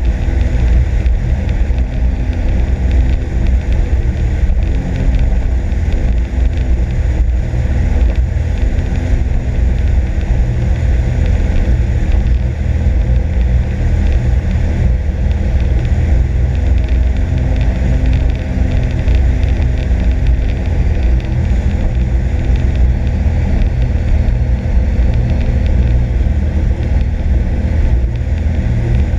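Sea-Doo RXP-X 260 jet ski's supercharged three-cylinder engine running steadily under way: a loud, continuous drone mixed with rushing water, holding about the same level throughout.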